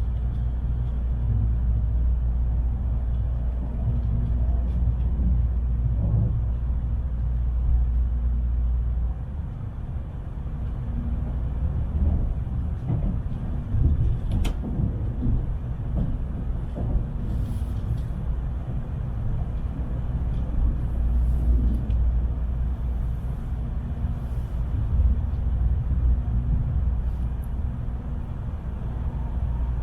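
Cabin noise of a Tokaido Shinkansen train running at speed: a steady low rumble that shifts in tone about a third of the way in, with a single sharp click about halfway.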